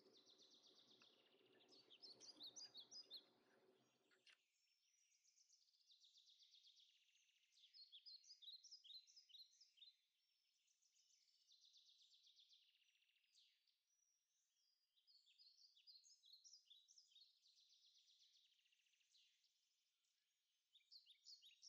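Faint birdsong: small birds chirping and trilling in quick repeated phrases. A low hum runs under the first four seconds and then cuts off.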